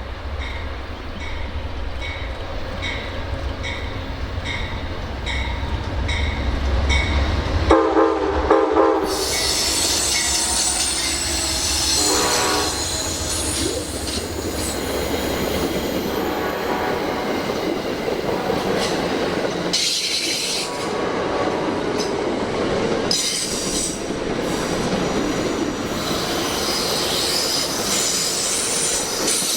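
Train on a railway line: a low locomotive rumble with an even ticking, then the horn blows about eight seconds in and briefly again near twelve seconds, and the train goes by with continuous wheel-and-rail noise and squealing wheels.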